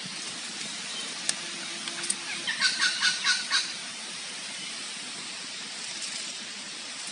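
A bird calling: a quick run of about seven calls in a little over a second, over a steady background hiss.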